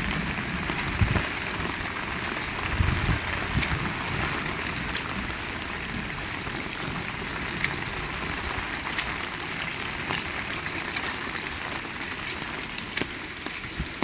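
Heavy rain falling steadily, with scattered sharper drips and taps of drops on nearby surfaces.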